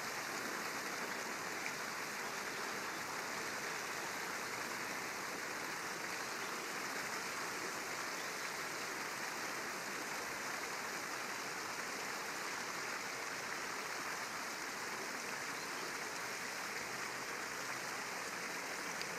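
Steady rush of a flowing river, an even running-water noise, with a faint tick shortly after the start and another near the end.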